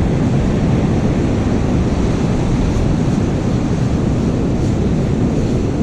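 Steady low rumble of wind buffeting the microphone, with beach surf mixed in.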